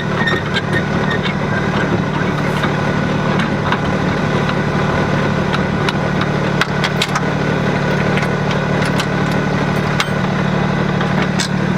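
An engine running steadily at idle, with scattered clicks and knocks over it.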